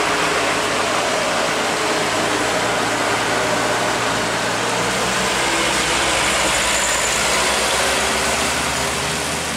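Heavy truck's diesel engine running steadily at a low pitch, under a constant hiss.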